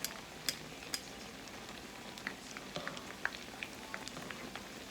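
Croquettes frying in hot oil in a pan: a steady sizzle with scattered sharp pops and crackles.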